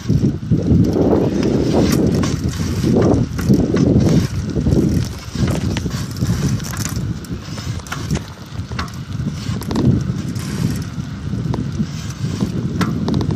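Bicycle ridden over a rough trail: a low rumble of wind and tyre noise that surges and fades, with scattered clicks and rattles from the bike.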